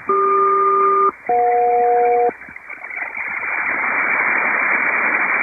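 SELCAL selective-calling tones sent over HF single-sideband radio for code CQ-EJ: two one-second two-tone chords with a short gap between them, the first pair a low and a high tone, the second pair closer together. They are followed by HF static hiss that slowly grows louder.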